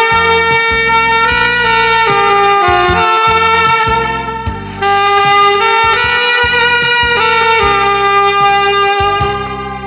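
Saxophone playing a slow melody in long held notes over a backing accompaniment, with a short break between phrases about halfway through.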